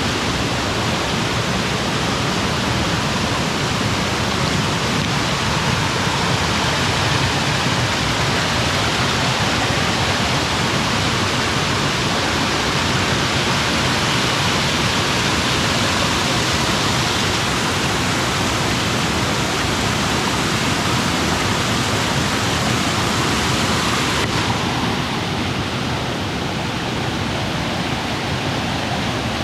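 Swift mountain creek water rushing over waterfalls and cascades, a loud, steady noise. About 24 seconds in, the top end drops and the rush sounds a little duller.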